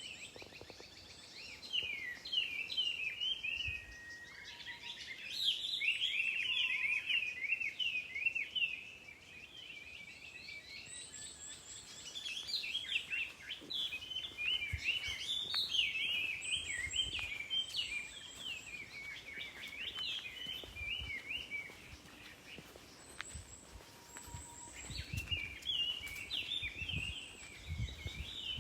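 Songbirds singing in a forest: a continuous run of fast, overlapping chirping and twittering phrases, with a few soft low thuds near the end.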